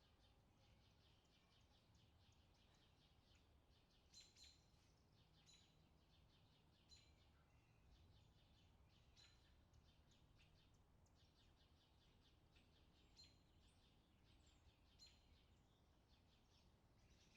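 Faint bird chirps, short and high, repeating throughout, with a few louder ones, over a faint low steady rumble.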